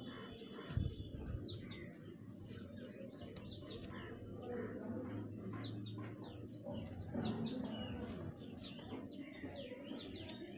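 Small birds chirping over and over in short, scattered calls, with a low steady hum beneath.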